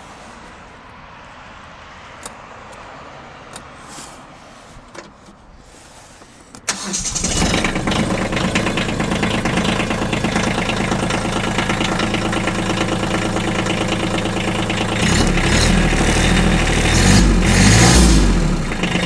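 Kubota B2320 compact tractor's three-cylinder diesel engine cold-starting: a few faint clicks, then about a third of the way in the engine catches abruptly and settles into a steady idle. It runs louder for a few seconds near the end.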